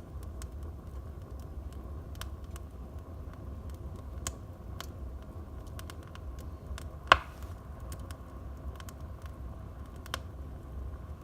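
Wood fire in a fireplace crackling: scattered small snaps over a low steady rumble, with one loud pop about seven seconds in.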